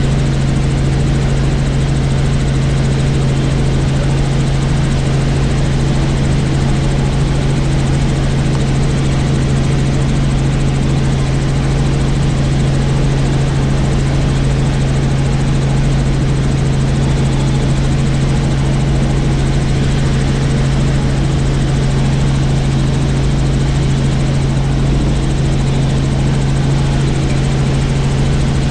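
Helicopter in flight, its rotor and engine making a loud, steady drone with a strong low hum that does not change.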